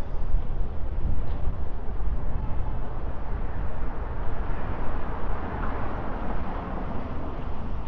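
Street traffic: a steady low engine rumble of vehicles on the road, with road noise.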